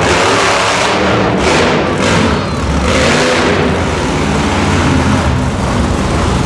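Monster truck engine revving loudly, its pitch rising and falling, with music also playing.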